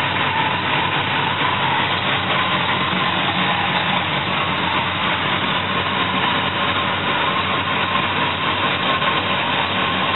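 A vehicle engine running steadily at an even pitch, with a low hum and a higher drone over it.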